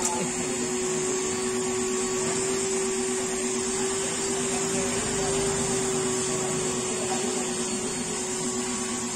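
A machine's motor running steadily at a car wash, with an unchanging hum and hiss.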